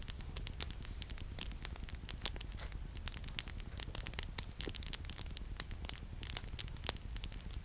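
Wood campfire crackling, with frequent irregular sharp pops and snaps from the burning firewood over a low steady rumble.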